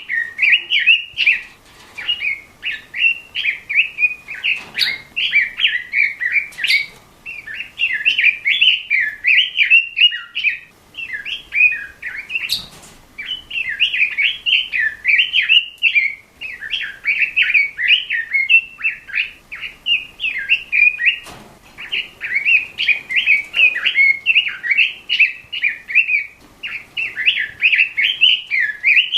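Red-billed leiothrix (Pekin robin) singing: a fast, nearly continuous run of warbling phrases with brief pauses, and a few faint clicks.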